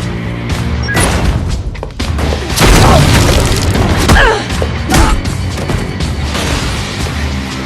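Action-film soundtrack: driving music with heavy booming impacts and crashes over it, the loudest hits a few seconds in.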